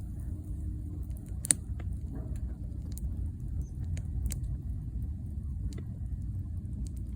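Wood fire crackling, with a handful of sharp, irregular pops, the loudest about a second and a half in, over a steady low rumble.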